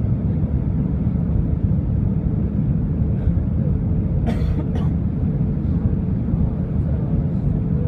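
Steady low rumble of jet airliner cabin noise from the engines and airflow, with a faint steady hum over it. About four and a half seconds in, a passenger coughs twice.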